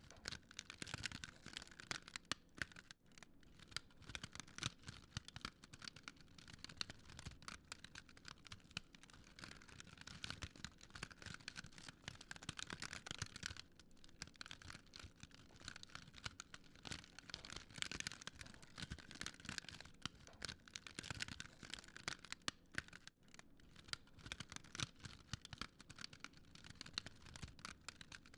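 Wood fire crackling, with dense irregular pops and snaps over a faint hiss.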